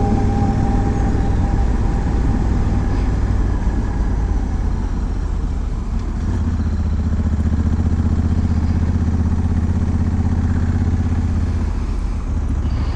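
Honda Africa Twin's parallel-twin engine running on the move, with wind noise. The engine note dips briefly about six seconds in, then holds steady.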